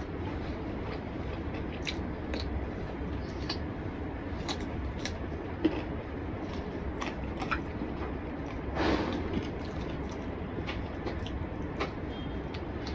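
Close chewing and wet mouth sounds of a man eating rice and curry by hand: scattered small smacks and clicks over a steady low hum, with one brief louder rustling noise about nine seconds in.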